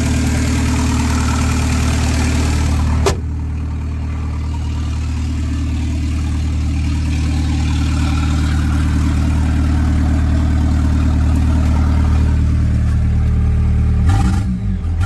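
Volkswagen Jetta TDI turbodiesel idling steadily after a cold start, freshly bled and running after a fuel filter change. About three seconds in there is a sharp click, after which it sounds slightly quieter. Near the end its pitch wavers up and down.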